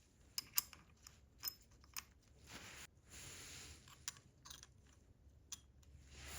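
Scattered sharp clicks and taps of small hard objects being handled, with a few stretches of soft hiss in between.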